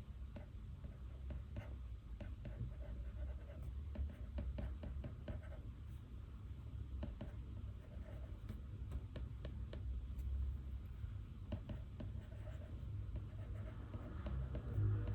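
Pen writing on paper: irregular light scratching strokes and small taps, over a low steady room rumble.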